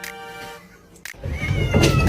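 A held musical note, then from about a second in a cat meowing loudly with a wavering pitch over rising background noise.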